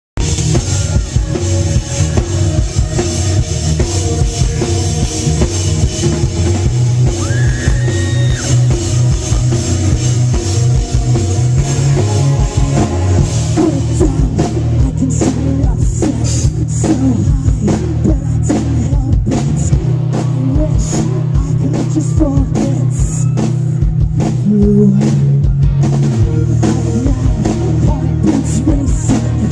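Live pop-rock band playing, with singing, drums and guitar over a heavy, booming bass. The drum hits become denser about halfway through.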